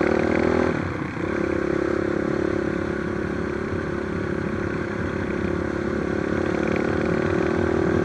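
Trail motorcycle engine running under way, easing off briefly about a second in, then pulling steadily at an even pitch.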